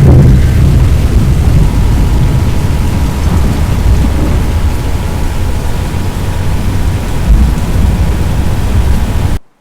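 Loud, steady thunderstorm noise of heavy rain with a deep rumble, cutting off suddenly near the end.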